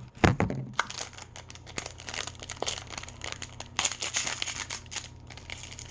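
Toy packaging crinkling and tearing as it is opened by hand: a run of irregular quick crackles, with louder bursts about two and four seconds in.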